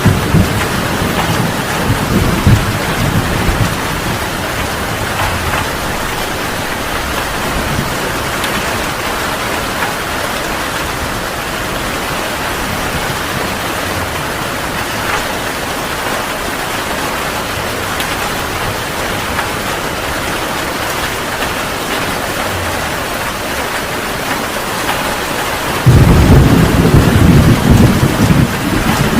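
Heavy rain falling steadily in a thunderstorm, with deep rolls of thunder at the start and a loud burst of thunder starting suddenly near the end.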